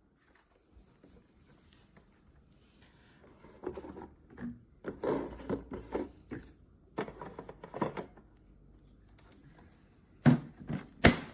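Handling noises: irregular rubbing and clattering in several clusters, then two sharp knocks near the end.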